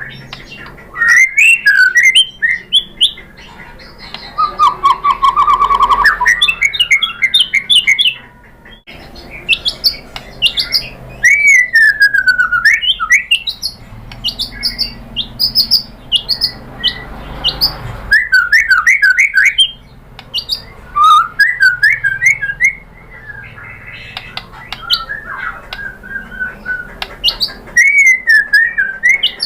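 White-rumped shama singing loudly in a varied run of phrases: clear whistles, a long falling glide, a rapid low trill about five seconds in, and harsh chattering notes, with short pauses between phrases.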